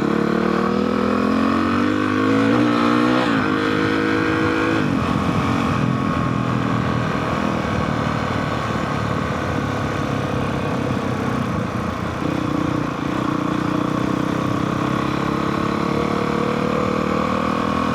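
Honda CRF450R single-cylinder four-stroke dirt bike engine under way, its pitch rising under throttle for the first few seconds and stepping up once more about three seconds in. About five seconds in it eases off to a rougher low-throttle run that climbs slowly again near the end.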